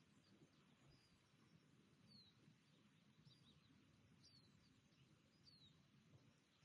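Faint, distant birdsong: short, high, falling chirps about once a second, over a faint low background rumble.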